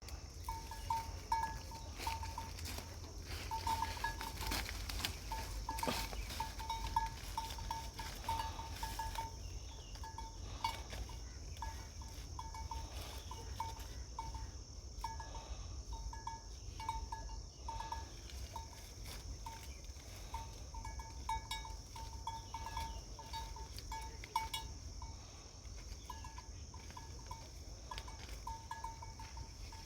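Outdoor nature ambience: a steady high-pitched insect drone, with runs of short, repeated tonal bird notes that come and go, over a low wind rumble.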